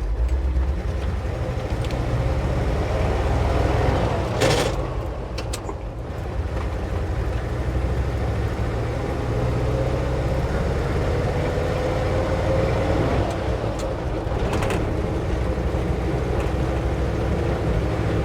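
Ford F600 medium-duty truck's engine running under way with road noise, a steady low drone whose pitch slowly rises about ten seconds in as it picks up speed. Two brief clunks, about four and fifteen seconds in.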